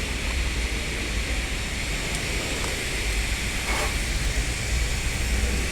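Heavy diesel engine running steadily at idle, a low even rumble.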